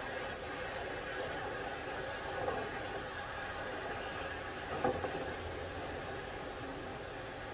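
Steady rushing hiss of duct-cleaning equipment running, with a light knock about five seconds in.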